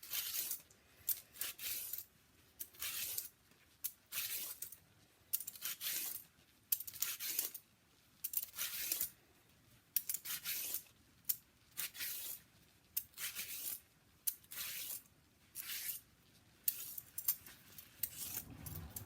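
A handheld vegetable peeler scraping along a parsnip, peeling it in short repeated strokes about one or two a second.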